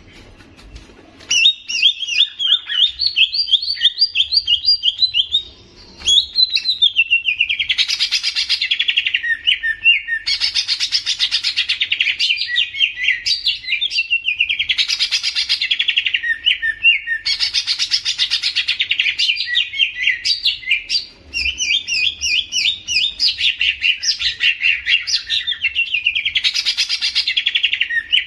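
A songbird singing a fast, continuous song of rapid chirping notes in phrases that repeat every two to three seconds. The song starts about a second and a half in and breaks off briefly twice.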